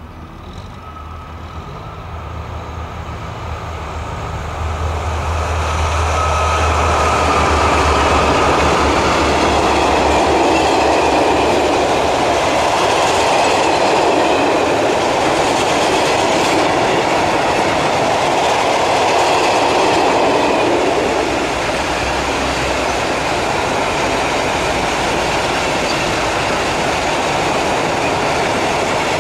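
Freight trains passing close by on the track, growing louder over the first several seconds as a locomotive hums past. Then comes a long steady rumble and clatter of wagon wheels rolling over the rails, with some squeal. The sound eases slightly a little past two-thirds of the way in.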